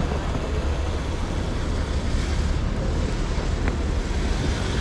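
Steady vehicle and traffic noise: a constant low rumble under a broad hiss, with one faint click about three and a half seconds in.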